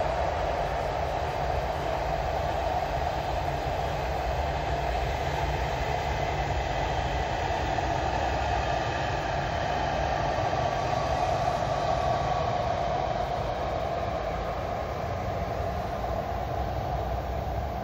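KTX high-speed train running past: a steady rumble of wheels on rail and rushing air, easing slightly near the end as the train draws away.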